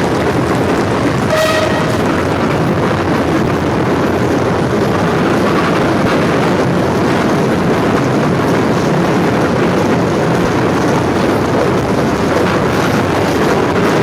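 A train running on rails with a steady running noise, and a short horn toot about a second and a half in.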